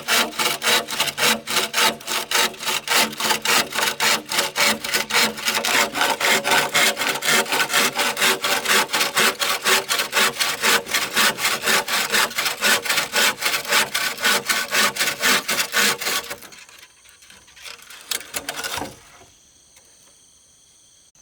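Hand saw cutting through wood in rapid, even back-and-forth strokes, stopping about three-quarters of the way in. A brief scrape follows, then only a faint, steady, high-pitched whine.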